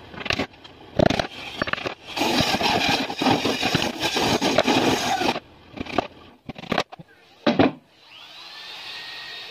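Wood being worked by hand: a couple of knocks, then about three seconds of continuous rough scraping on wood, then three more knocks.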